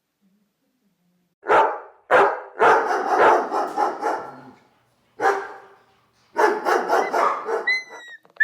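Dog barking in about five rough bursts, with a short high yelp near the end, typical of a dog fight.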